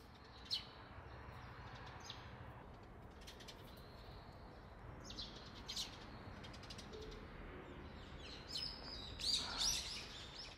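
Small birds chirping outdoors over a steady, faint background hiss. There are a few scattered single chirps, then a busier run of chirps near the end.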